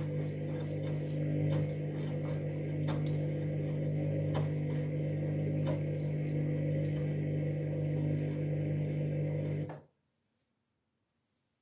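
Candy washing machine running mid-cycle: a steady electric hum with scattered light clicks and knocks, which cuts off abruptly near the end.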